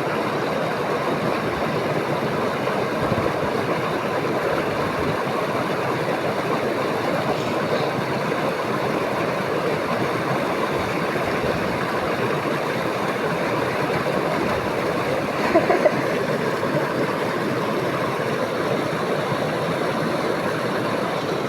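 Steady rushing of flowing river water, even and unbroken, with one brief louder sound about two-thirds of the way through.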